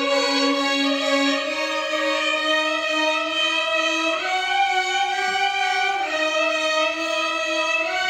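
Violin orchestra playing Carnatic music in unison: long sustained bowed notes that step up and down between pitches, with gliding slides between notes.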